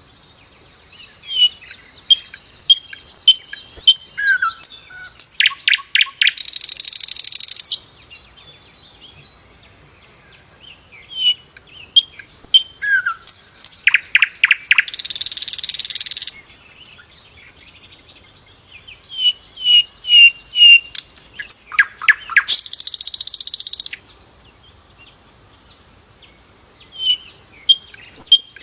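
A sikatan londo flycatcher singing its loud song in three repeated phrases: each is a run of short, clear high notes, a lower falling note and a few quick clicks, ending in a harsh buzzy trill of about a second, with a few seconds of quiet between phrases.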